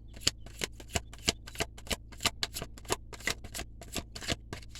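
A deck of tarot cards being shuffled by hand: a steady run of crisp card snaps, about three a second, that stops just before the end.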